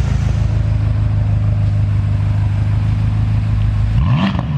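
BMW F10 M5's 4.4-litre twin-turbo V8, running through newly fitted AMS high-flow downpipes, idling steadily, then blipped once near the end, its pitch rising and falling back.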